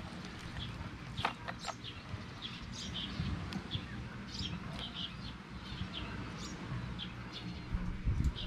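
Small birds chirping: short high chirps, many in a row, over a low steady background rumble, with a couple of light clicks about a second in.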